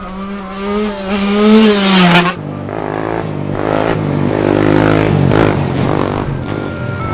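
Small off-road engine revving up and easing off, then running on at a steadier pitch with a second engine sound mixed in after an abrupt change about two seconds in.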